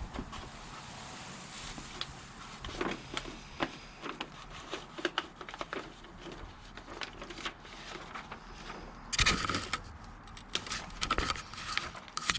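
A sheet of paper rustling and crinkling as it is held against the car's sheet-metal frame and traced with a fingertip, with scattered light scrapes and taps and a louder rustle about nine seconds in.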